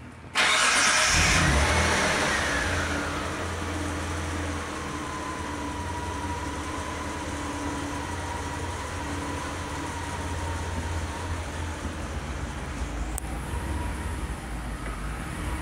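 Mitsubishi 3000GT's V6 engine starting up about half a second in, flaring high and then dropping over a few seconds into a steady idle.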